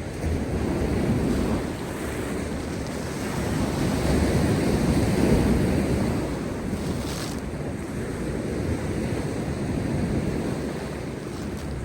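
Heavy post-storm surf breaking on a rocky shore: a continuous wash of crashing and surging water that swells and eases, loudest about four to six seconds in, with a brief hissing rush of spray and foam about seven seconds in.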